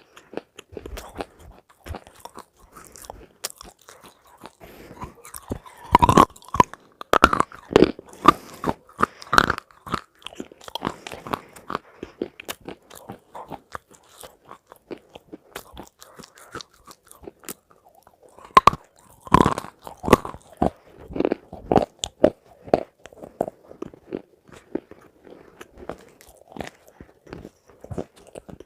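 A person eating crunchy food close to the microphone: two spells of loud crunching bites, with quieter chewing crackles in between and after.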